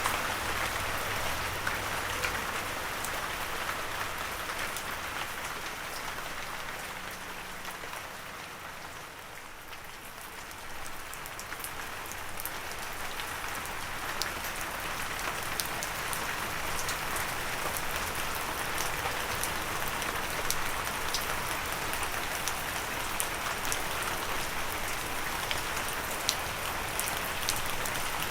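Steady gentle rain falling, with a dense patter of individual drops; it eases off for a few seconds about a third of the way through, then builds back.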